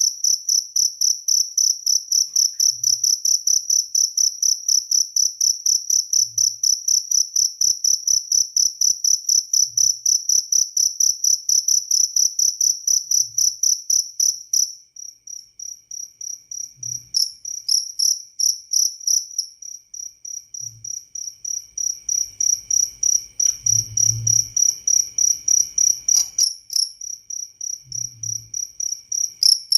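Jaliteng cricket chirping in a fast, even, high-pitched pulse train. About halfway through the chirping weakens and breaks up, then gradually builds back to full strength.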